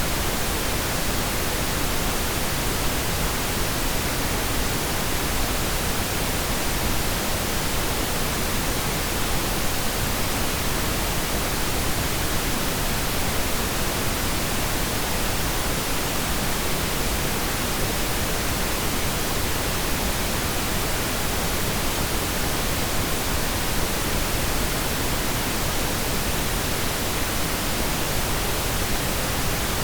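Steady pink noise: an even, unbroken hiss.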